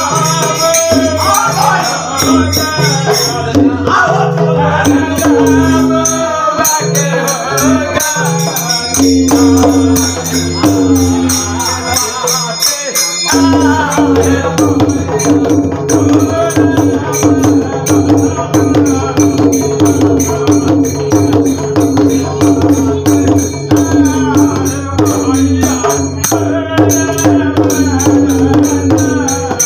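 Devotional folk bhajan: a man singing over a hand drum beating a steady rhythm, with jhal hand cymbals clashing fast throughout. About 13 seconds in, the singing and drum break off briefly, then resume.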